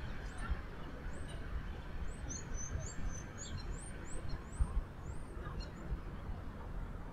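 Small birds chirping: many short, high, upward-sliding chirps, thickest from about two to five seconds in, over a steady low outdoor rumble.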